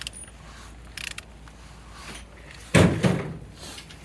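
Opel A12XER engine being turned over by hand with a wrench on the crankshaft to check rotation and compression: scattered mechanical clicks, and one louder thump about three seconds in.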